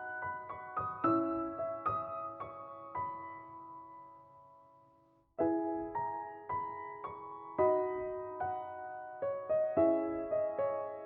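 Soft background piano music: single struck notes and chords, each dying away. The music fades out around four to five seconds in, then starts again abruptly.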